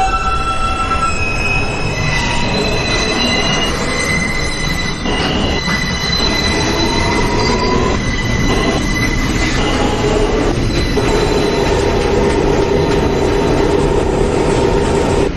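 New York subway train in motion, its wheels squealing against the rails in several high, shifting tones over a steady low rumble of the car running on the track.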